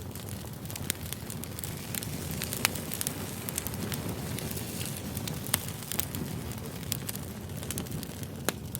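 Wood campfire burning: a steady low rush of flames with frequent sharp crackles and pops, a few of them loud.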